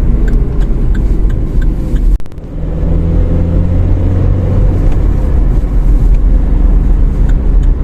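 Car running along an open road, heard from inside the cabin: a steady low engine hum and road rumble. The sound dips briefly about two seconds in.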